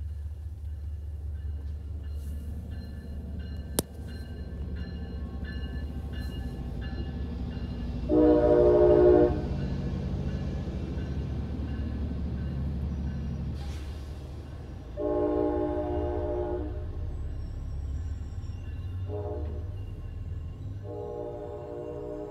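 MBTA commuter rail diesel locomotive and bilevel coaches rumbling past, with the locomotive's air horn sounding four blasts: long, long, short, long, the standard grade-crossing signal. A single sharp click about four seconds in.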